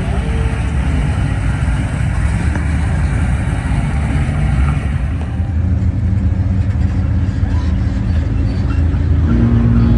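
A show vehicle's engine running close by at low speed as it drives off, a deep steady rumble.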